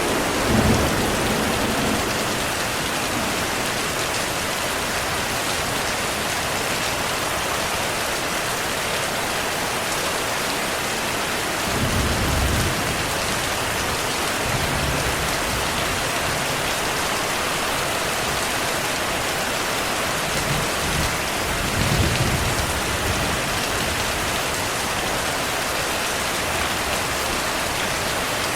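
Steady rain falling as an even hiss, with three short low rumbles of thunder: near the start, a little before halfway, and about three-quarters of the way through.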